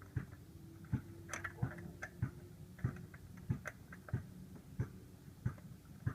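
Steady, evenly spaced single clicks, about three every two seconds, over a faint low hum.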